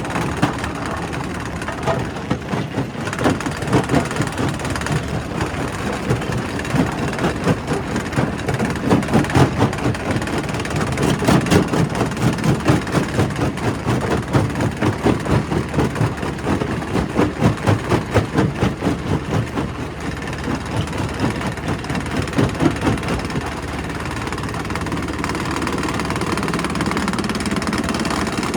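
Primary rock crusher working: heavy machinery running steadily under a dense, rapid clatter of knocks as rock is broken. The knocking eases off near the end and leaves a smoother, even running sound.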